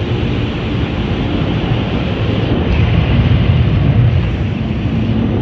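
Car wash tunnel air dryers blowing a steady, loud rush of air over the car, heard from inside the car, swelling a little in the middle as the car passes the blowers.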